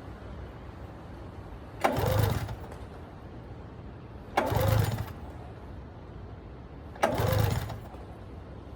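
Recoil pull-starter of a 1996 Arctic Cat ZRT 600 snowmobile pulled three times, about two and a half seconds apart, each pull spinning the two-stroke engine briefly with a quick rise and fall in pitch. The engine is being cranked over with its spark plugs out to draw fuel into the lines after a fuel pump rebuild, so it does not fire.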